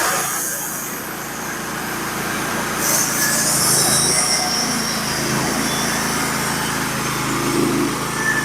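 Norwood HD36v2 portable band sawmill running, its small gas engine at a steady speed as the blade makes a pass through a scarlet oak log. A brief hiss comes about three seconds in.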